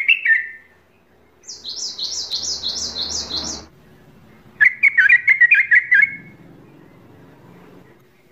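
Bird calls: quick phrases of repeated chirping notes. A higher-pitched run of about seven notes is followed, after a short pause, by a lower run of about eight notes.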